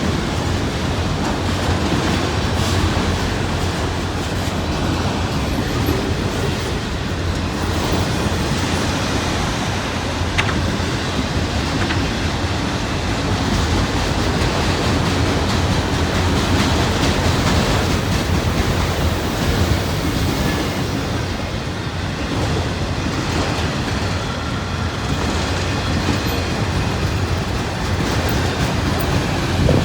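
Freight train cars rolling past at track speed: a steady rumble of steel wheels on the rails with the clatter of wheels over the rail joints.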